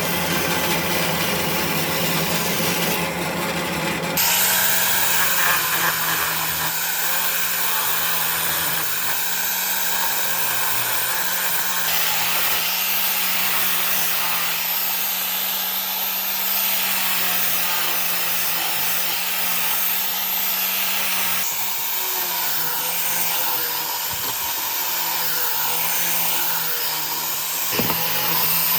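An electric power tool running steadily on wood, a constant motor hum under a rough abrasive noise. The sound changes abruptly about four seconds in and again twice later.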